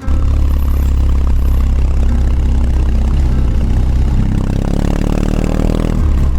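BMW R18 Classic's 1802 cc air/oil-cooled boxer twin running with a deep, low exhaust note; about four seconds in the sound grows fuller as the throttle opens.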